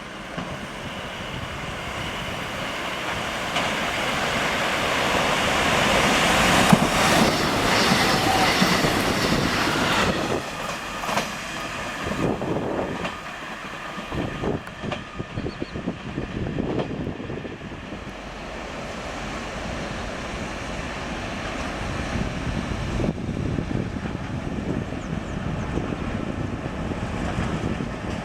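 A train passing close by, growing louder to a peak about a quarter of the way in, with a run of wheel clacks over rail joints, then easing to a steadier rumble.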